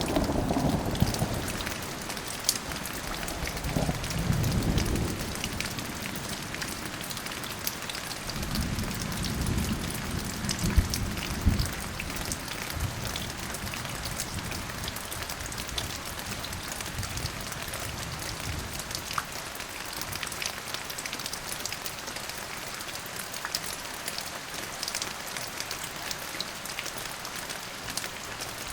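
Steady rain with fine pattering drops, with low rolls of thunder in the first dozen seconds: one at the start, one about four seconds in, and the longest from about eight to eleven seconds in. After that only the rain goes on.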